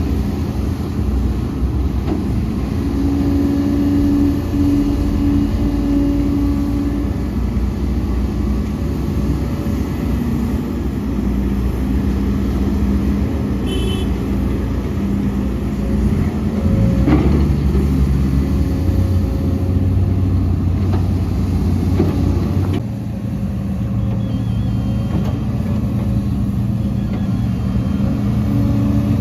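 Heavy diesel earthmoving machinery at work: excavator and dump-truck engines running, with the engine pitch shifting and rising as load comes on, a couple of sharp knocks, and a drop in level near the end.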